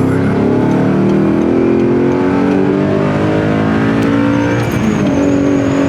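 Audi R8 engine accelerating hard, its pitch rising steadily, then dropping about five seconds in as the R tronic automated gearbox shifts up, with a faint high whine underneath near the end.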